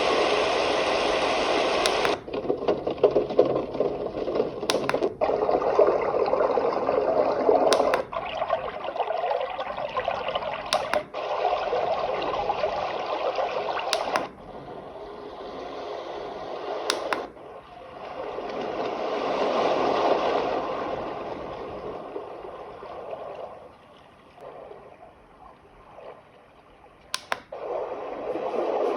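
A portable white noise machine's small speaker playing its built-in soothing sounds one after another, a click marking each switch every few seconds. Water-like sounds are among them, with one slow swell that rises and falls.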